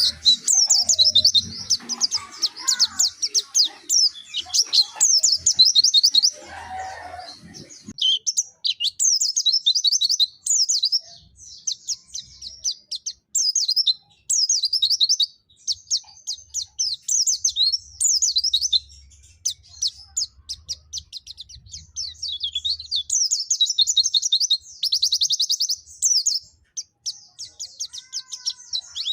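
Pleci (white-eye) songbird singing a long, fast chattering song: rapid runs of high, downward-sweeping chirps, broken by short pauses. For the first several seconds there is also a fainter, lower chattering sound underneath.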